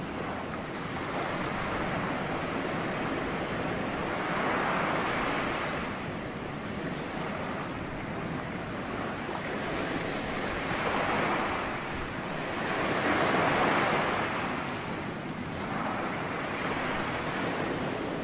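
Ocean surf: waves breaking and washing in, in slow swells of rushing noise several seconds apart. The loudest swell comes about two-thirds of the way through.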